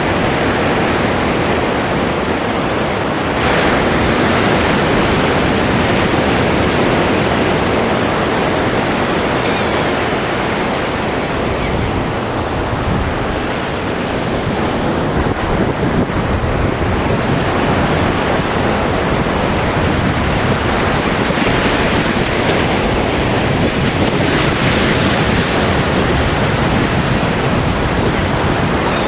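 Ocean surf breaking and washing ashore in a continuous wash of noise. It swells louder and brighter about three seconds in and again near the end.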